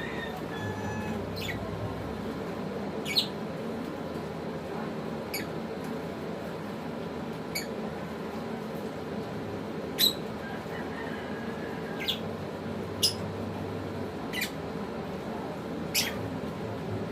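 Pet African lovebirds giving short, shrill chirps that fall quickly in pitch. There are about nine chirps, one every one to two seconds, over a steady background hum.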